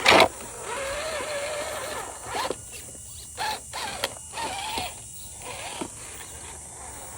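Small electric motor and gearbox of an RC crawler truck whining as it is driven in short on-off throttle bursts, the pitch wavering with speed, after a sharp loud noise at the very start.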